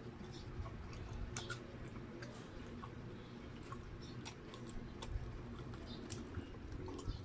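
Close-up mouth sounds of a person biting and chewing slices of Spam luncheon meat: irregular wet smacks and small clicks, over a steady low hum.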